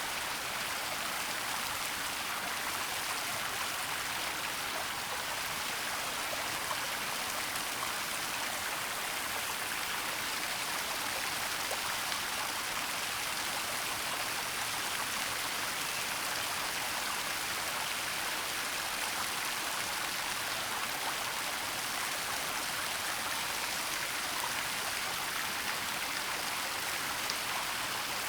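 Waterfall and stream water rushing, a steady hiss.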